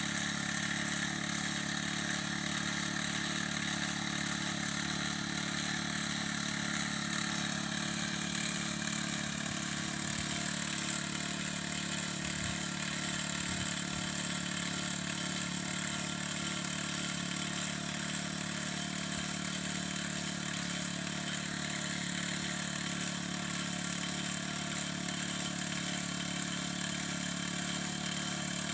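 Small petrol engine of a motorized crop sprayer, running steadily at one constant speed.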